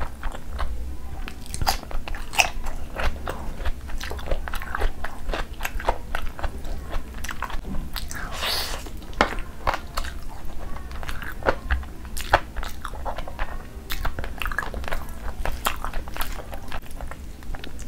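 Close-miked chewing and wet mouth sounds of someone eating rice and chicken by hand, many quick sticky clicks, with the hand squishing and mixing rice on the plate between mouthfuls. A brief louder swish about eight and a half seconds in.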